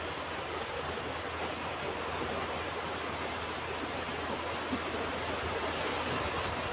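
Ocean surf washing on a beach: a steady, even rush of waves with no single crash standing out.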